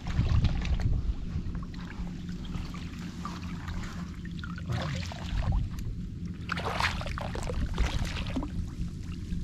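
Water splashing and trickling in several short spells, over a steady low rumble.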